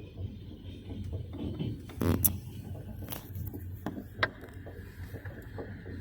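Moving train: a steady low rumble with scattered clicks and rattles, a louder knock a little after two seconds and a sharp click about four seconds in, then a faint steady high whine.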